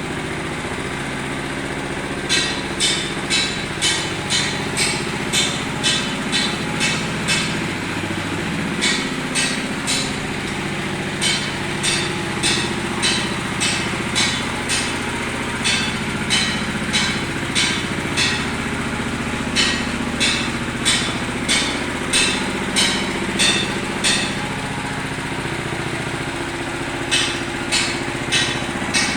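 Small petrol engine of concrete-finishing equipment running steadily while fresh concrete is levelled. Over it come runs of sharp, rhythmic strokes about two a second, with a few short pauses.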